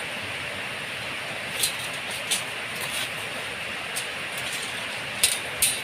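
Light metallic clinks of steel reinforcing bars and stirrups being handled and fitted into a post cage, five or so sharp clinks at irregular intervals over a steady rushing hiss.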